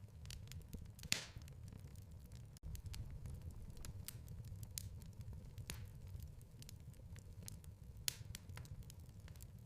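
Wood fire crackling in a fireplace: a low, steady rumble of burning with scattered sharp pops and snaps, the loudest about a second in.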